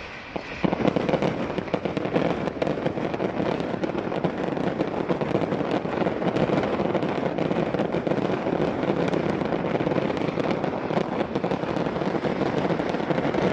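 The mass salvo of the Palmera palm-tree firework: a dense, continuous stream of many overlapping firework bangs and crackles that starts suddenly under a second in.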